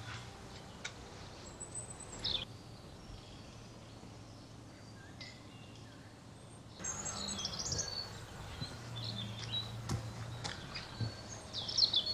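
Small songbirds chirping and singing, with a quieter spell of a few seconds in the middle where only faint calls remain. A few light knocks come near the end.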